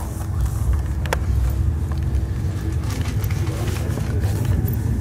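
Steady low rumble of a train at a stop, with a faint steady hum that fades about three seconds in and a single sharp click about a second in.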